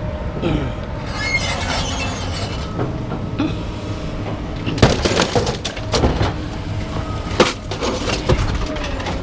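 Metal clanks and sharp knocks as parts are worked loose from scrap, the parts not coming out easily; the strongest knocks land about five, six, seven and a half and eight and a half seconds in, over a steady low rumble.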